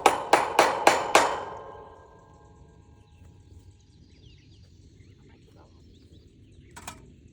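Hammer blows about three a second, each ringing metallically, ending with a last blow about a second in. After them faint birdsong, and one sharp click near the end.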